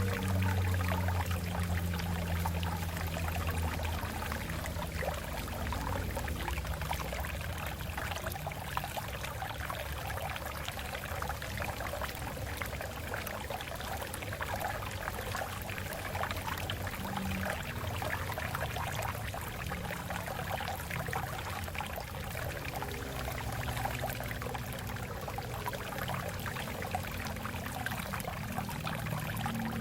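Water running and splashing over rocks in a stream, a steady gurgling rush with a low rumble underneath.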